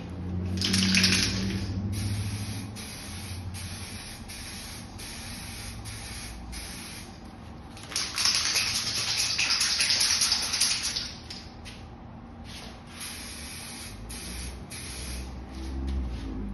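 Aerosol can of 2K clear coat spraying a thick coat in passes: a hiss of about a second and a half near the start, a longer, louder hiss of about three seconds from around 8 s, and short spurts between.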